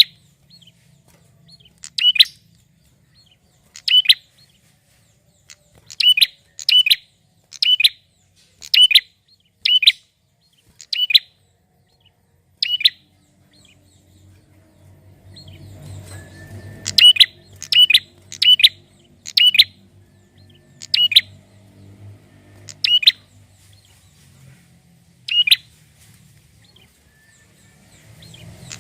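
Male prinia (prenjak) singing a series of short, sharp, high chirps, about one a second, some in quick pairs, with a pause of a few seconds near the middle. A faint low hum runs under the second half.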